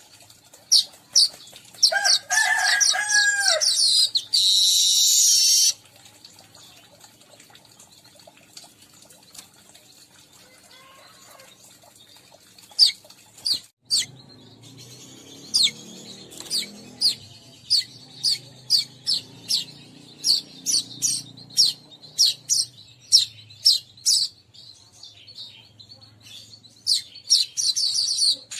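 Weaver birds calling: a few sharp, high chips, then a chattering song ending in a buzzy hiss. After several seconds' lull comes a long run of sharp, high chips, one or two a second.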